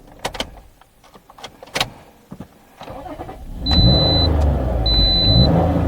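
Toyota RAV4's 3.5-litre V6, cranked with the accelerator pedal floored, starts about three and a half seconds in and keeps running; it does not go into clear-flood mode. A few clicks come before it, and a high dashboard warning chime beeps about once a second.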